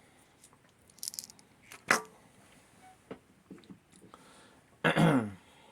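Light clicks, scrapes and rattles of a screwdriver working hair out of a vacuum's brush roll, with one sharp click about two seconds in. Near the end there is a short hum from a man's voice that falls in pitch.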